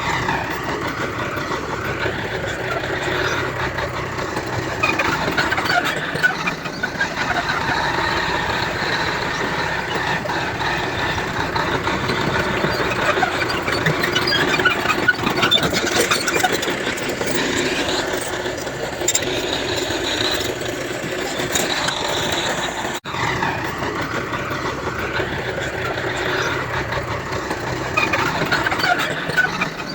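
Bulldozer at work: its diesel engine running under load with high, scattered squealing of the kind steel crawler tracks make. The sound breaks off for a moment about 23 seconds in.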